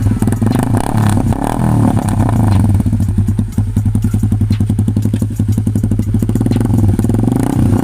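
Honda Sonic 150R's single-cylinder four-stroke engine running at low revs through an aftermarket SC Project-style slip-on exhaust, a Purbalingga-made replica, with slight rises in engine speed around a second in and near the end.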